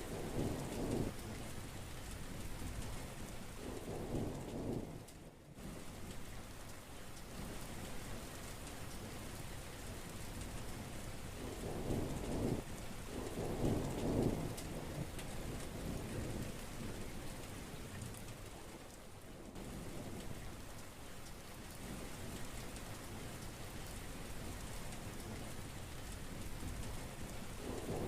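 Heavy rain falling steadily in an even hiss. Short low rumbles of thunder swell up at the start, about four seconds in, and twice around twelve to fourteen seconds in.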